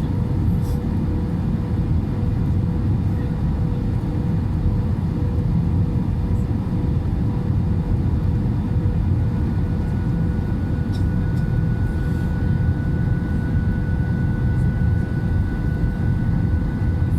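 Steady drone of an airplane's engines, with a faint steady whine that joins about halfway through.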